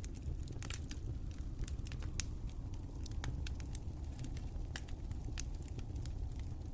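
Wood fire crackling, with many irregular sharp pops and snaps over a steady low rush of the flames.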